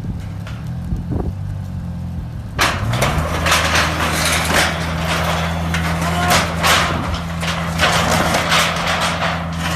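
Truck engine running, then revving up about three seconds in and holding a steady high pitch. From about two and a half seconds in it is joined by a loud, crackling rush of noise.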